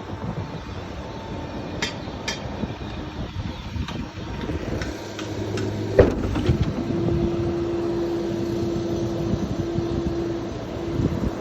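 Ford bucket truck running with its PTO driving the boom hydraulics, as the aerial boom is worked. A couple of sharp clicks come about two seconds in, a knock about six seconds in, and then a steady hum holds for several seconds.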